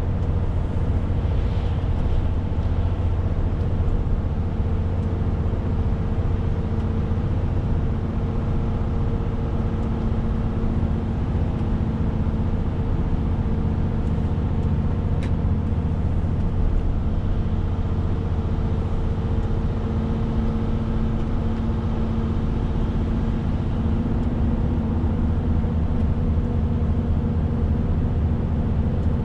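Renault T520 truck's six-cylinder diesel running steadily under way, a low engine drone over road noise, its note stepping up slightly about two-thirds of the way through. A single sharp click about halfway.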